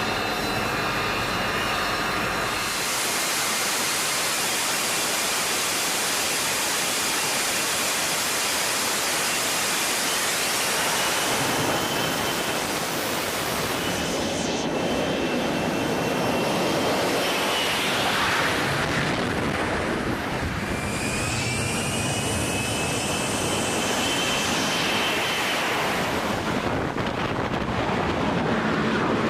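AH-64 Apache helicopter in flight: a steady, loud rush of rotor and engine noise with the high whine of its turboshaft engines gliding slightly. The sound changes abruptly several times.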